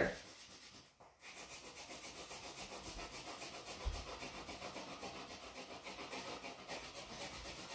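Wax crayon rubbing back and forth on paper, filling in an area with quick, even strokes at light pressure; the strokes start about a second in after a short pause.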